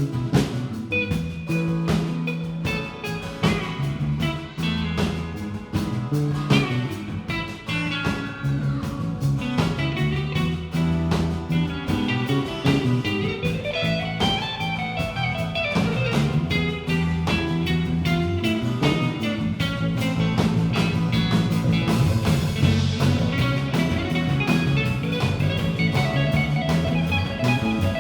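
Live rock band playing an instrumental passage: guitar lines with bending, gliding notes over low sustained notes and a steady drum kit beat.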